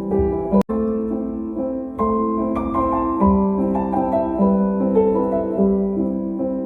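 Gentle background piano music, sustained notes changing every half second or so, with a brief click and dropout under a second in.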